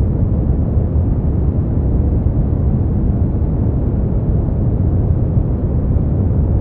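Synthetic brown noise: a steady, deep rumbling hiss, strongest in the low bass and fading towards the treble, without change.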